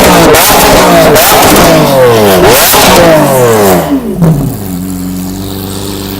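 Lamborghini Aventador LP750-4 SV's V12 engine revved in repeated quick blips, its pitch sweeping up and falling back. About four and a half seconds in it drops to a steady idle.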